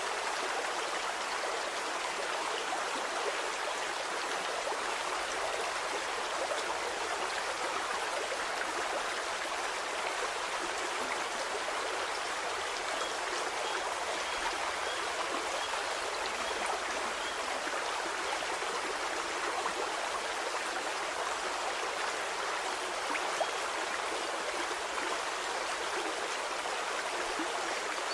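Stream water flowing steadily, an even, continuous rush.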